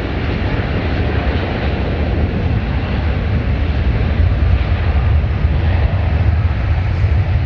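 Jet airliner engines running with a steady, loud low rumble, growing slightly louder toward the end.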